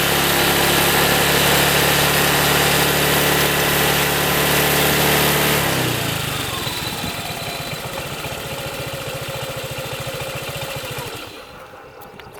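Honda ADV150 scooter's single-cylinder engine through its stock muffler, held at steady high revs for about six seconds. The throttle is then released: the pitch slides down and the engine settles into a low, even putt-putt idle, which stops about eleven seconds in as the engine is switched off.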